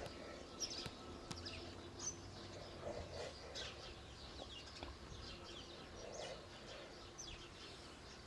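Faint birdsong: many short, high chirps scattered throughout, with a lower call every three seconds or so.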